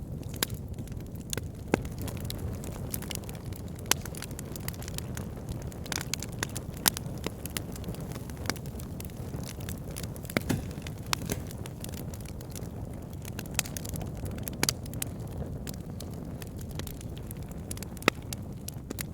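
Wood fire burning in a fireplace: a steady low rumble of flame with frequent irregular crackles and pops, a few of them sharper and louder.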